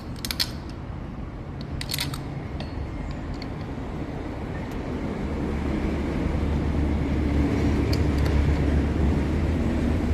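A couple of sharp metallic clinks as the starter motor and its bolts are handled on the bench, then a steady low rumble that starts about halfway through and grows louder.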